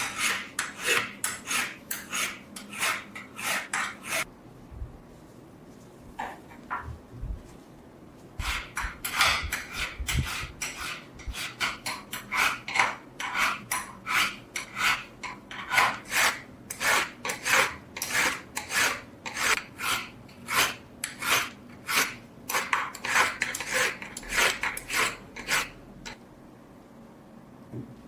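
Hand abrasive strokes rasping back and forth on a rusty steel knife blade, about two to three strokes a second. They pause for a few seconds early on, resume, and stop shortly before the end.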